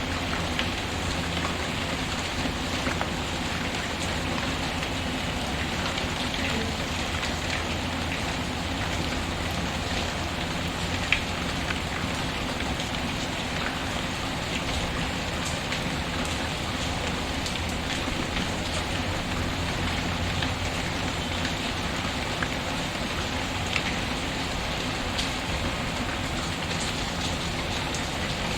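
Steady rain pattering, with scattered small crackles and pops from a wood fire in a fireplace, one sharper pop about eleven seconds in.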